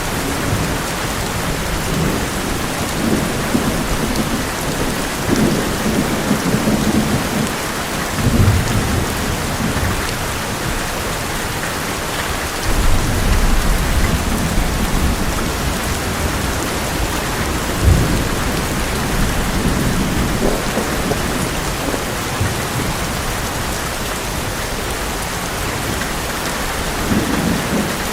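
Heavy rain pouring steadily on an old metal roof, with thunder rumbling several times and a sharper crack about two-thirds of the way through.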